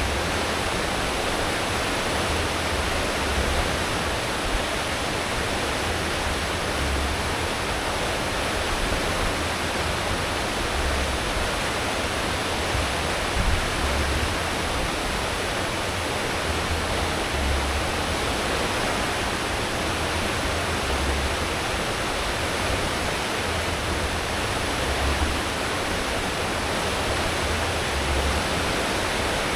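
Cruise ship's wake churning at full speed behind the stern: a steady rush of foaming water, with an uneven low rumble from the engines and propellers underneath.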